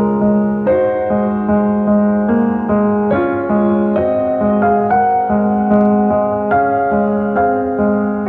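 Solo piano playing a slow, gentle instrumental piece, with notes struck about twice a second over sustained chords.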